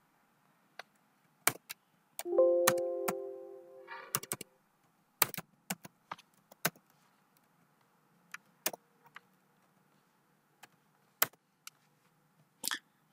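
Computer keyboard keystrokes and mouse clicks, a scattered series of sharp clicks with a quick run of them about four seconds in. About two seconds in, a louder pitched ringing tone sounds and fades over about a second and a half.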